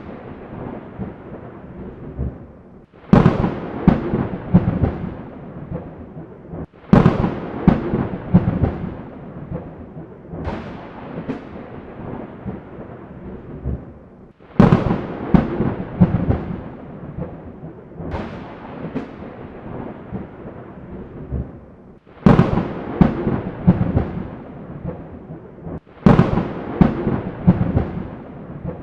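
Thunderstorm: about six sharp thunder claps, each starting suddenly and crackling and rumbling away over a few seconds. A steady rain hiss runs between them.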